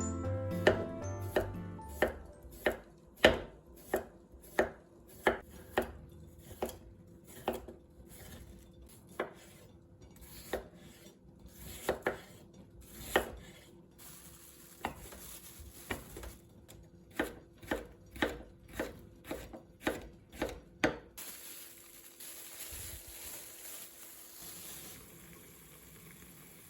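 Kitchen knife chopping food on a cutting board in a steady rhythm of about one and a half strokes a second. The chopping stops near the end and is followed by a steady hiss lasting about four seconds.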